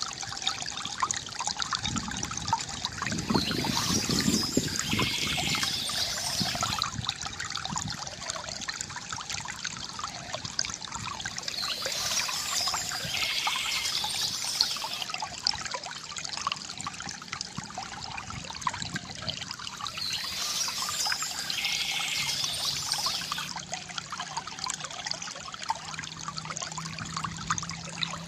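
Water trickling and pouring steadily from a bamboo fountain into a basin, with a brighter splashing hiss that swells about every eight seconds.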